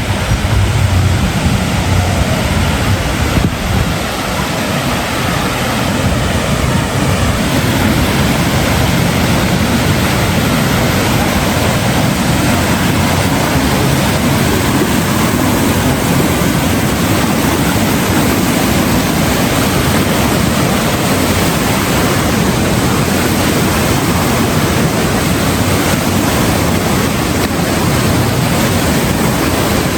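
Steady, loud rushing of water with wind noise on the microphone.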